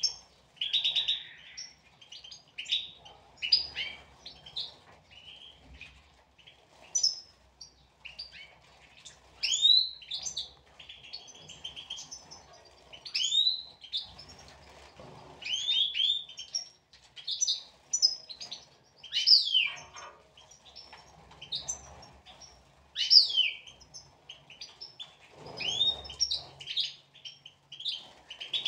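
European goldfinches twittering, a steady run of short, quick chirps and trills, some sweeping up or down in pitch.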